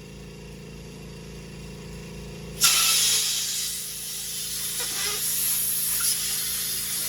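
Compressed-air blow gun hissing loudly as air is forced under a handlebar grip to work it loose. The hiss cuts in suddenly about two and a half seconds in and holds steady after a low hum.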